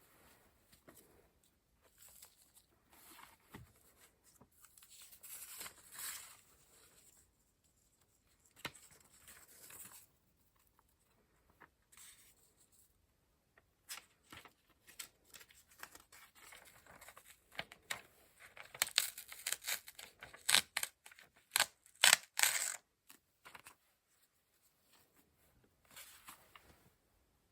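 Paper-crafting sounds: sheets of paper and card being handled, with soft rustles and scratchy paper passages coming and going. A little past the middle comes a quick run of sharp, crisp paper crackles, the loudest part.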